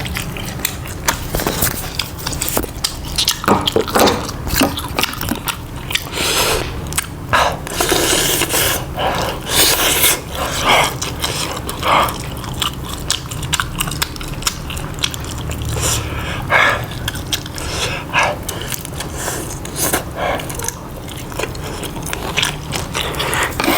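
Close-miked biting and chewing of crunchy food: irregular crisp crunches and mouth sounds, one bite after another.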